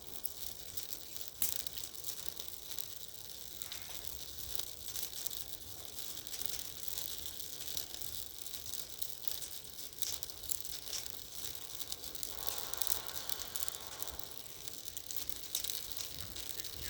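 Bonfire of wooden bird cages burning, with dense, irregular crackling and popping.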